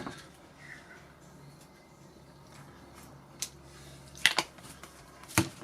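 Light kitchen handling while cos lettuce leaves go onto burger buns: a few sharp clicks and taps, the loudest about four seconds in and near the end, over a faint low hum.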